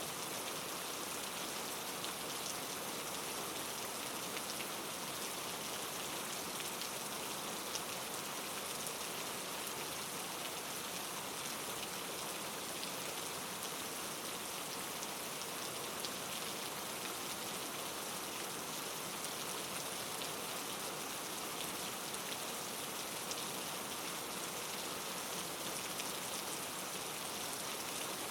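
Steady rainfall: an even, unbroken hiss of rain with faint scattered drop ticks.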